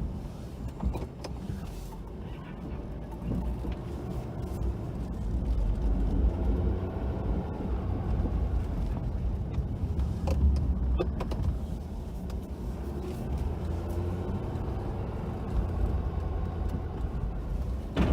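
Pickup truck's engine running under a plowing load, with faint squeaking and groaning from the snowplow coming and going and a few sharp clicks about two-thirds of the way through. The plow is this noisy because of the extreme cold.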